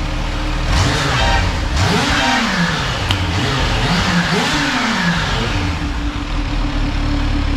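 Kawasaki Z H2's supercharged inline-four, on its stock exhaust, is blipped from idle four times in quick succession, each rev rising and falling. It then settles back to a steady idle.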